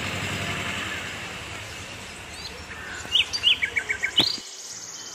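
Small birds chirping outdoors: a quick run of short, hooked chirp notes about three seconds in, over a steady high background hiss. The background noise drops away abruptly near the end.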